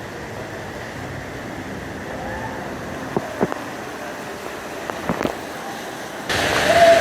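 Outdoor background noise, a steady wash with a few short clicks. About six seconds in it cuts sharply to a louder rushing noise.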